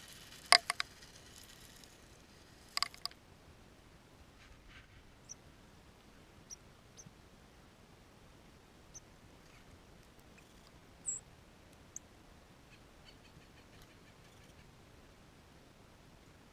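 Small birds at a feeder giving scattered short, high chips and squeaks, with two louder sharp clicks in the first three seconds.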